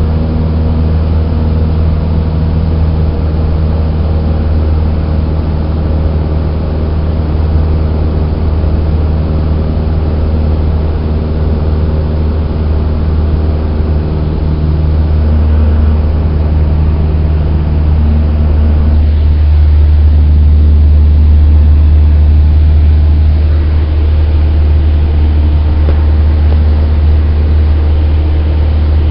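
Cessna 172's four-cylinder piston engine and propeller droning steadily, heard inside the cabin, swelling a little about two-thirds of the way through.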